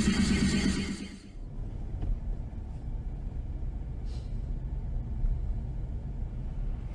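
Music cuts off about a second in, giving way to the steady low rumble of a car driving, its engine and road noise picked up by a dashcam.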